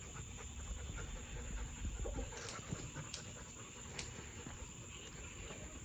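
A dog panting steadily, with a few faint clicks.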